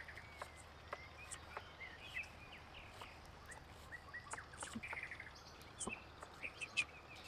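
Faint outdoor ambience with small birds chirping in short calls, over a low steady background hum and scattered sharp clicks.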